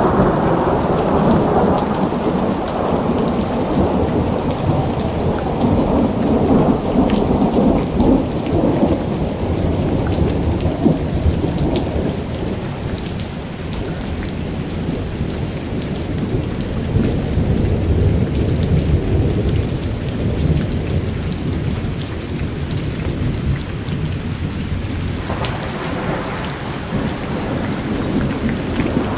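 Thunderstorm: steady rain with long rolls of thunder rumbling almost throughout, easing in the middle, and a fresh peal beginning about four seconds before the end.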